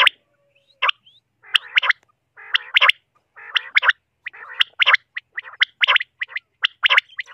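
Common quail calling: sharp, clipped call notes repeated in quick groups, with raspy, gargling calls mixed in during the first half.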